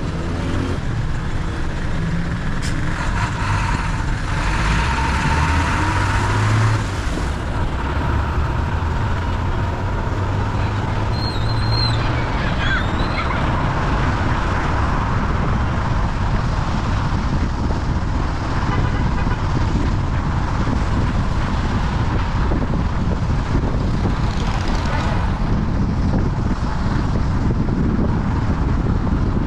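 Steady road noise of a car on the move: engine and tyre noise.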